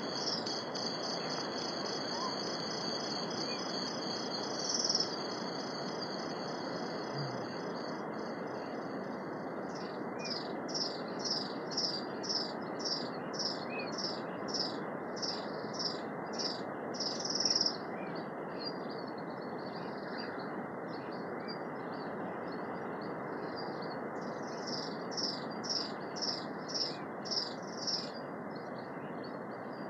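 Birds calling: a continuous high trill for the first several seconds, then a run of repeated high chirps about two a second, with a shorter run near the end, over a steady rushing background noise.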